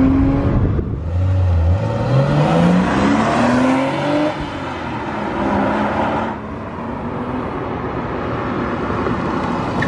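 1999 Porsche Boxster's flat-six engine accelerating hard. Its note climbs in several rising sweeps through the gears, then fades into steadier road noise for the last few seconds.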